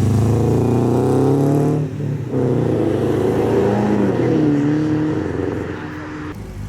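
A modified car's engine revving hard as it accelerates away, loud and close, with a short dip about two seconds in before it pulls again, then fading near the end.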